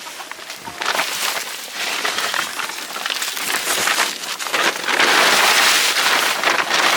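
A plastic tarp rustling and crinkling as it is pulled off a pigeon coop, loudest in the last couple of seconds.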